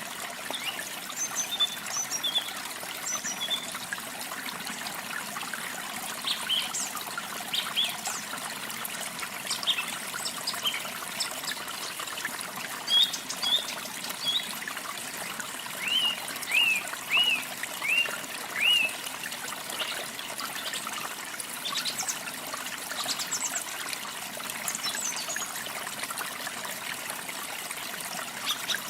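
Small songbirds chirping in short, scattered calls over a steady trickle of running water. A little past the middle, one bird gives a quick run of five similar chirps.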